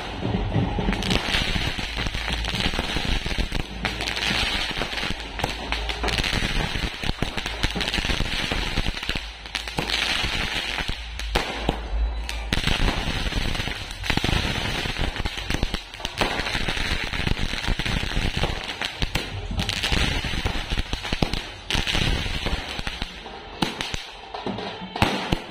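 Fireworks going off in a long, dense run of rapid cracks and pops, with short lulls now and then. Music plays underneath.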